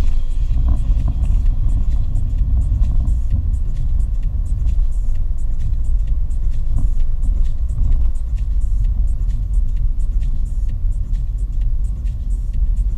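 Steady low rumble of a car driving along a road: engine and tyre noise, with faint regular ticking high above it.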